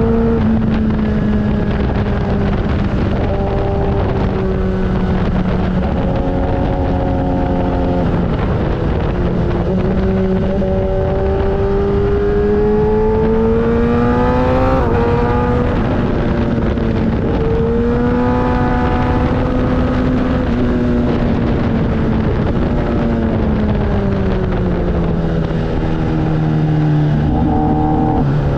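Motorcycle engine under way, its pitch climbing as it accelerates and dropping back sharply several times as it shifts gears, over a steady low rushing noise.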